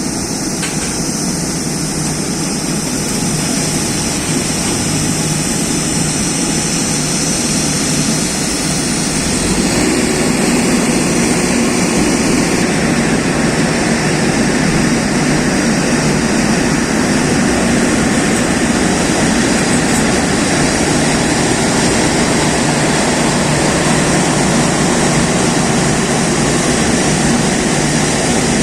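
Boeing 787 Dreamliner jet engines running, a loud steady rush of noise that grows a little stronger and deeper about ten seconds in.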